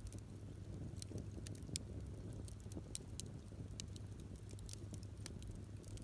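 Driftwood campfire crackling, with small irregular pops and snaps over a steady low rumble.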